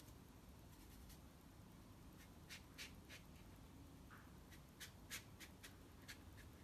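Faint, short swishes of a synthetic-bristle watercolour brush stroking across paper, a handful of quick strokes mostly in the second half.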